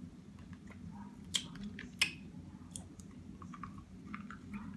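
Close-up eating sounds: soft chewing with a few sharp clicks, the two loudest about one and a half and two seconds in. A steady low hum runs underneath.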